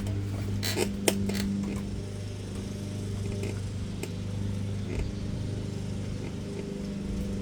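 Lawn mower engine running steadily in the background, with a few sharp metallic clicks from work on the bike about a second in.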